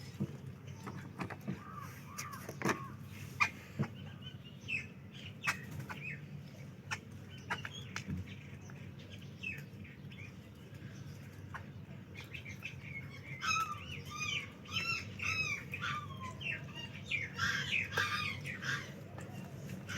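Small birds chirping: scattered short high chirps, with runs of quick, repeated arching notes in the middle and near the end, over a steady low background hum.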